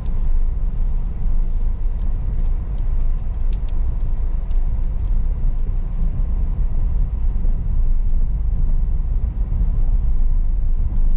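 Car driving on a sandy dirt road: a steady low rumble of engine and tyres, with scattered small clicks and ticks a few seconds in.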